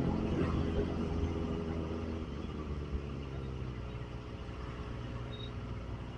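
Kawasaki ZX-25R's inline-four engine with the revs falling over the first few seconds, then settling to a steady idle.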